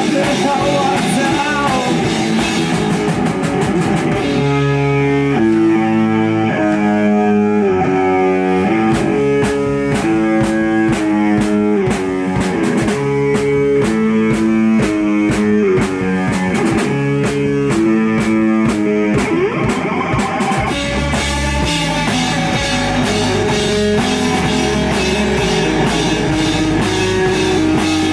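Live rock band playing: electric guitar riffing in repeated chords over a drum kit. The cymbals thin out about four seconds in while the riff carries on, and the full band comes back in strongly about twenty seconds in.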